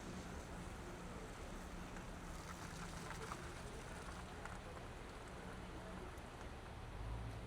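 Steady traffic ambience from a car driving through city streets: a continuous low engine hum under an even wash of road noise, swelling slightly near the end.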